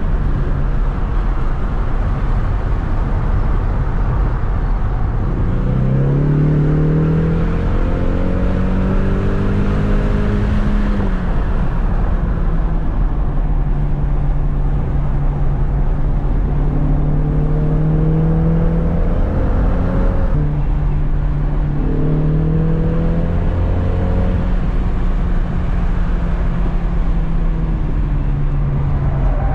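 2020 Ford Mustang EcoBoost's turbocharged 2.3-litre four-cylinder engine heard from inside the cabin at track speed, over heavy road and wind rumble. The engine note climbs under acceleration three times, about six, seventeen and twenty-one seconds in, each climb ending in a sudden drop.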